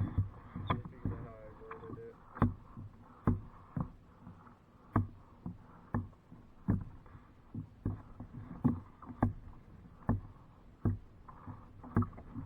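Kayak being paddled: a sharp knock or splash of the paddle strokes roughly once a second, over faint water noise.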